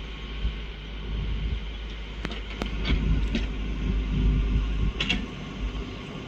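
Backhoe engine running with a steady whine, with several sharp knocks about two to five seconds in; the low rumble eases about five seconds in.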